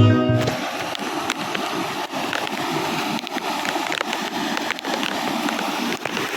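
Steady rushing of running water from a monsoon stream near the waterfall, with scattered sharp clicks over it. Sitar music cuts off about half a second in.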